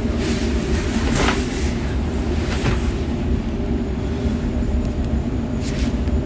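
Sydney suburban electric train running along the track, heard from inside the carriage: a steady low rumble with a few brief clicks from the wheels on the rails.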